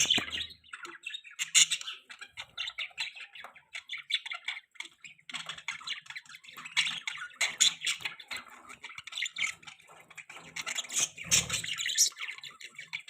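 Budgerigars chirping and chattering in a continuous stream of rapid, short calls, with a few louder calls standing out now and then.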